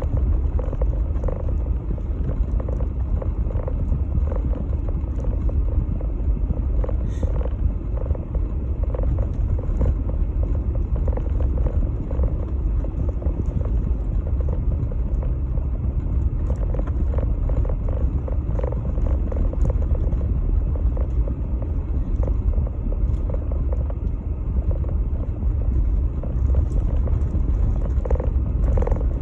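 Jeep Gladiator driving, a steady low rumble of engine and road noise that holds even throughout.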